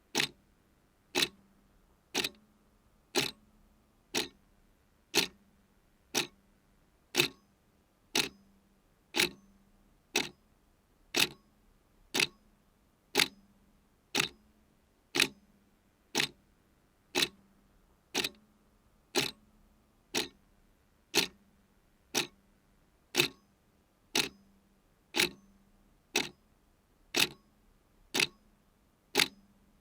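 Clock ticking steadily about once a second, the ticks alternating slightly louder and softer in a tick-tock rhythm.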